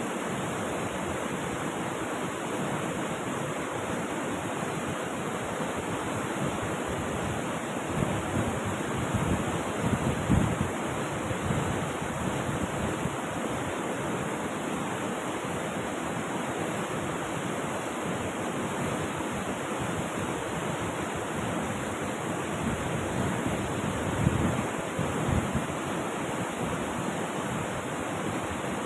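Steady rush of flowing river water or a waterfall, with a few brief louder low swells about eight to twelve seconds in and again near the end.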